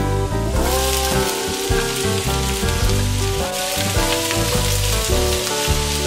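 Diced zucchini sizzling in hot oil in a frying pan as it is tipped in and stirred with a wooden spatula. The sizzle jumps louder about half a second in as the pieces land. Background music plays under it.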